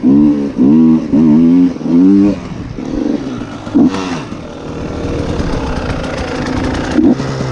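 Motocross dirt bike engine revved in quick repeated throttle blips, its pitch rising and falling about twice a second. About two and a half seconds in it drops to a quieter steady running, with a couple of short blips later on.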